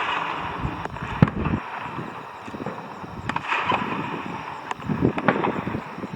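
Fireworks bursting: a sharp bang about a second in and more bangs and crackles around five seconds in, over wind noise on the microphone.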